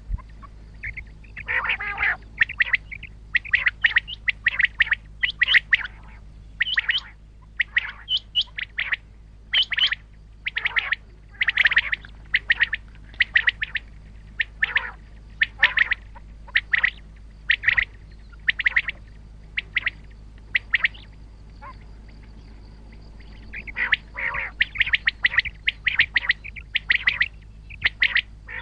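Common quail calling: short, sharp notes repeated in quick runs, with a sparser stretch about two-thirds of the way in, over a steady low hum.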